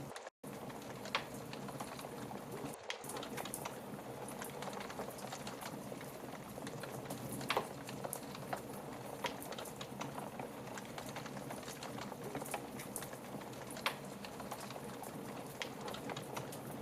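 Wood fire crackling steadily, with a running stream of small pops and a few sharper pops: about a second in, near the middle, and a few seconds before the end. The sound cuts out for an instant just after the start.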